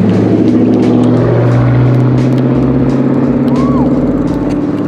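A motor vehicle's engine running close by in street traffic: a loud, steady low hum.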